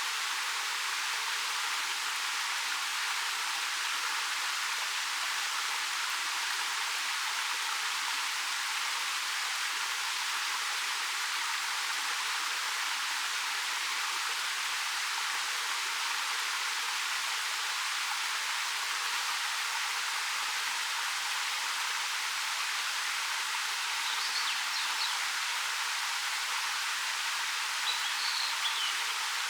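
Ariake Falls, a 13 m waterfall pouring over black rock, making a steady rush of falling water that is all hiss and splash, with no low rumble.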